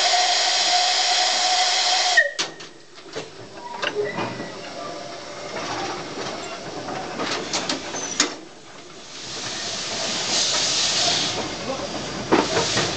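Baldwin 0-6-0 steam locomotive's whistle blowing one steady note for about two seconds, then cutting off. Scattered clanks and knocks follow as the train starts. From about nine seconds, a loud hiss of steam is released, with sharp knocks again near the end.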